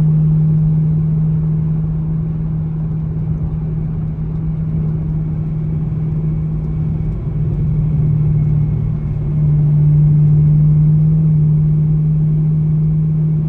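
Straight-piped 2017 Camaro SS's 6.2-litre V8 droning steadily at a cruise, with a brief change in the engine note about seven seconds in.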